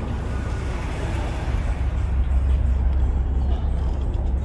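Low rumble of a passing car's engine, swelling louder about two seconds in.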